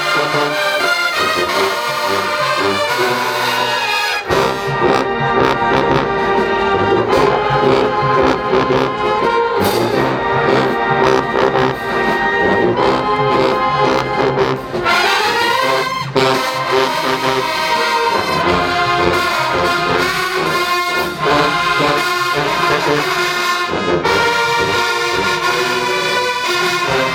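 Marching band playing loudly, led by trombones and trumpets. Drums and low brass come in about four seconds in, and there is a rising brass sweep about halfway through.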